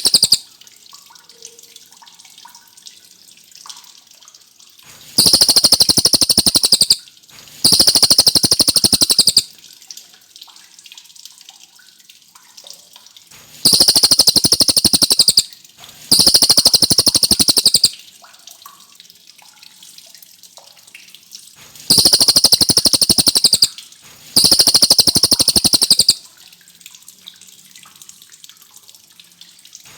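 Cililin songbird singing loud, rapid trilled phrases of about two seconds each, high-pitched, delivered in pairs with short quiet gaps, six phrases in all.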